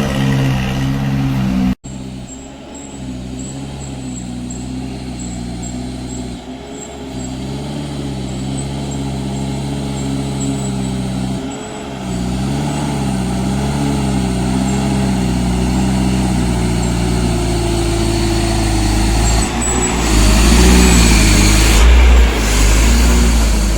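Diesel engine of a heavily loaded sand truck labouring, its pitch wavering up and down as the revs change. There is an abrupt break about two seconds in. The sound grows louder toward the end, with bursts of rushing noise.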